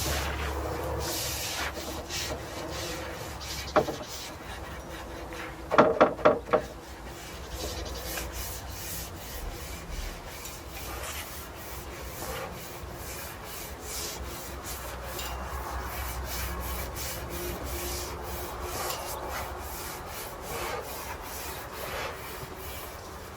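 Paint brush bristles rubbing oil onto larch wood planks in repeated short scratchy strokes. About six seconds in, four quick loud knocks with a ringing tone.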